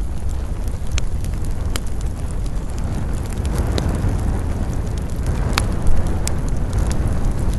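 Campfire burning, with a sharp crackle or pop every second or so over a steady low rumble. A rushing swell builds through the middle, typical of wind moving through the pines.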